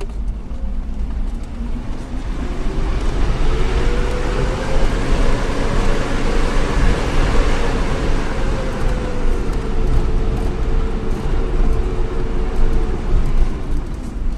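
Shuttle vehicle's engine running under load over a steady low rumble of road noise; its pitch rises over the first several seconds, then holds and eases slightly near the end.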